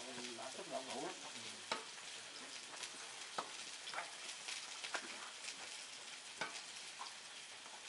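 Steady sizzling hiss of food frying on a barbecue, with scattered light clicks of utensils against plates and containers as food is served. A faint voice in the first second.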